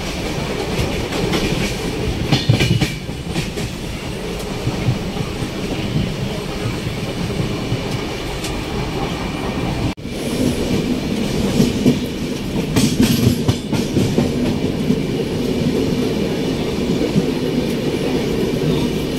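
Express train running at speed, heard from inside the passenger coach: a steady rumble of wheels on the rails with clickety-clack, and spells of louder clatter about two seconds in and again about thirteen seconds in.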